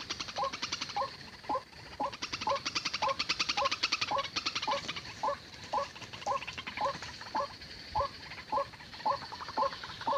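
White-breasted waterhen calling: a short, falling 'ruak' note repeated steadily about twice a second, with a fast high ticking trill over the first half.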